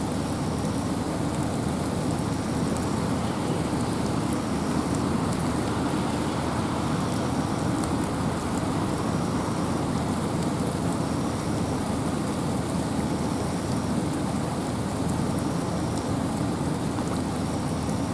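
Steady rain with wind in a forest: an even, unbroken hiss with a full low rush and fine scattered drop ticks on top.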